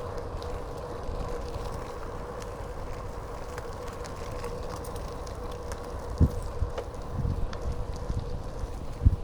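Riding noise from a moving bicycle: wind rumbling on the microphone over a steady thin hum, with sharp low thumps from about six seconds in.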